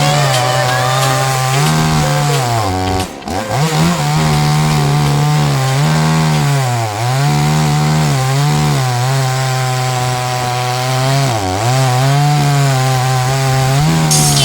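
Two-stroke chainsaw in an Alaskan sawmill frame, running at high revs while ripping a pine log lengthwise into planks. Its pitch sags under load a few times and dips sharply once, about three seconds in, before climbing back.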